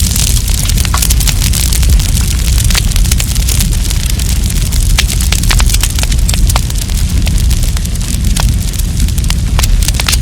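Wood campfire burning, crackling and popping in rapid, irregular snaps over a steady low rumble.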